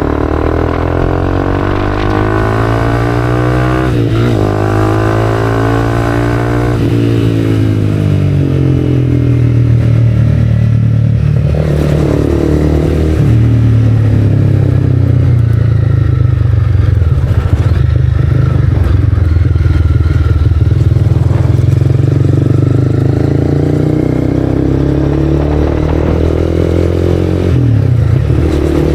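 Honda CB300R single-cylinder engine through an Arrow aftermarket exhaust, heard while riding. The engine note rises and falls several times as the bike accelerates and eases off.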